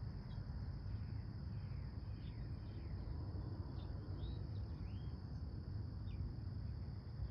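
Outdoor ambience: insects trilling steadily at a high pitch, with scattered short bird chirps and a low steady rumble underneath.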